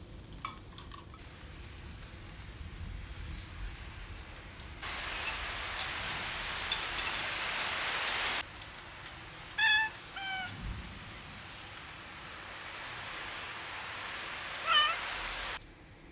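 Steady rain falling, its hiss starting and stopping abruptly. Three short high animal calls sound over it, two close together about two-thirds of the way in and one near the end.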